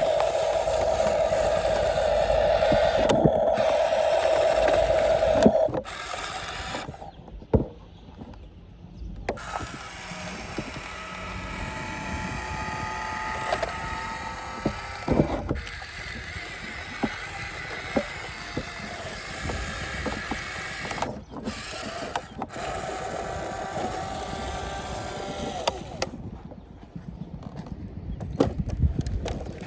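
Electric motors and gearboxes of a Huina 1573 remote-control dump truck whining. A loud steady whine runs for about the first six seconds and cuts off, then quieter whining rises and falls in pitch, with scattered clicks.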